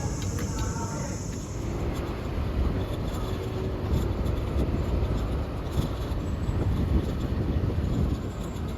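Steady low rumble of motorbike and road traffic.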